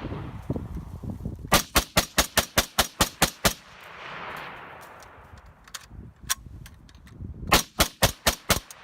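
SKS semi-automatic rifle (7.62×39mm) fired rapidly: a quick string of about ten shots, a single shot, then another quick string of about six shots near the end.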